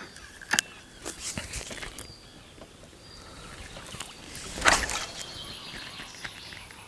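A feeder rod being cast out: a sharp click about half a second in, a few softer ticks, then a louder, longer noise about five seconds in.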